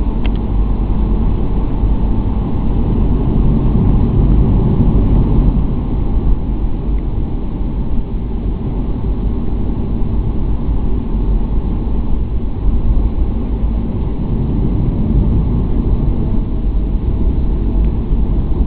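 Jet airliner's engines running with a steady, loud low rumble.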